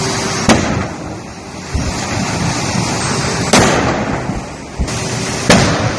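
Three sharp gas explosions, the first about half a second in, the next about three seconds later and the last two seconds after that, each a loud crack with a short rumbling tail, over a steady noisy background.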